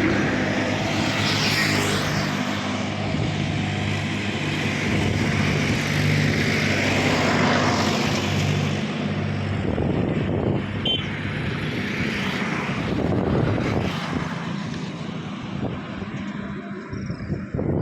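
An engine running with a steady drone, its even hum fading into a rougher noise after about nine seconds.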